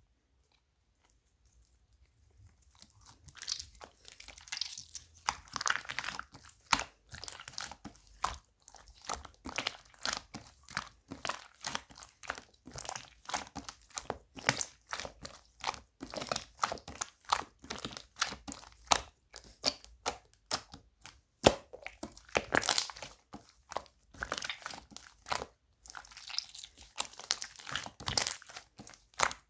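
Slime being squeezed and kneaded by hand, giving a rapid, dense run of crackling, crunching and popping clicks that starts about two seconds in.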